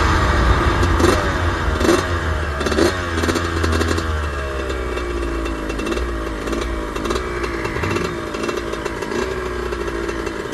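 Suzuki RM125 125 cc two-stroke single-cylinder engine under way on the road, revving up sharply a few times in the first three seconds, then falling in pitch in several long slides as the bike slows. Wind rumbles on the microphone throughout.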